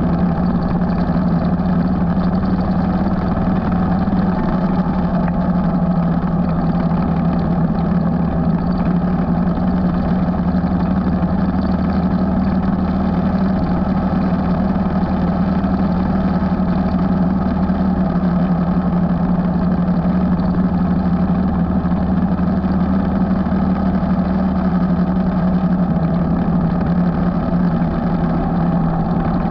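Motorcycle engine running at a steady cruising speed while riding, its note holding nearly constant, with road and wind noise.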